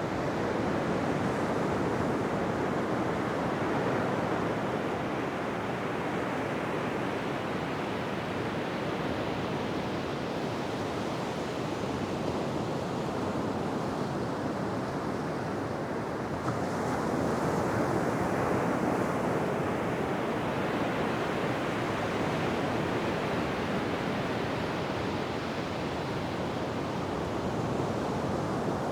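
Ocean surf breaking and washing on a beach: a continuous rush that swells and eases, with a fresh wave surging in about sixteen seconds in.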